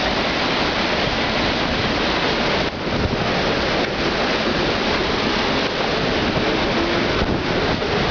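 Heavy rain and strong storm wind in a severe thunderstorm, the wind buffeting the microphone in a steady, dense rush of noise.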